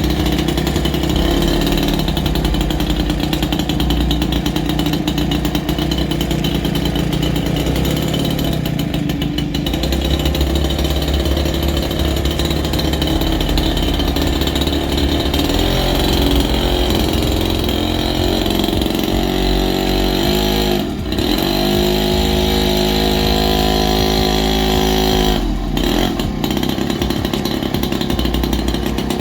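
Mini bike's small single-cylinder engine running under way, its pitch rising and falling with the throttle; about two-thirds through it holds a steady higher pitch for a few seconds, then drops.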